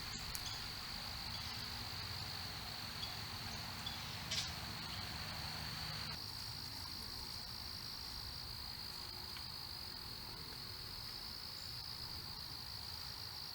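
Crickets trilling steadily at a high, even pitch, with a second trill slightly higher joining about six seconds in. A brief sharp chirp cuts through a little over four seconds in.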